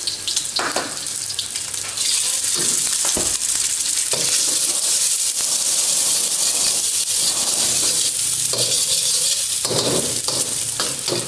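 Egg frying with chicken and shallots in a hot oiled wok, sizzling loudly, while a metal spatula scrapes and stirs against the wok. The sizzle jumps up sharply about two seconds in.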